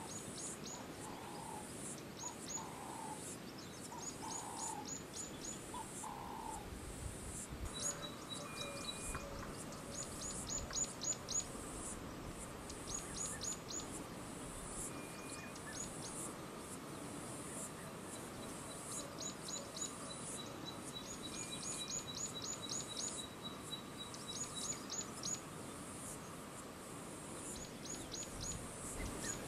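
Outdoor bush ambience with birds calling: quick runs of short, high, thin chirps repeat throughout, a few lower calls come about a second apart in the first seven seconds, and a steady high hiss runs underneath.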